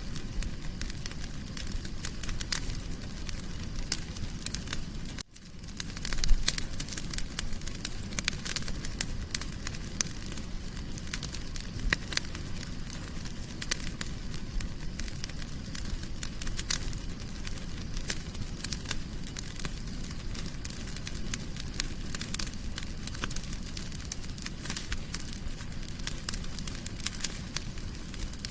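Wood fire in a fireplace crackling, with dense, irregular pops and snaps over a soft low hiss. It drops out briefly about five seconds in, then comes back slightly louder.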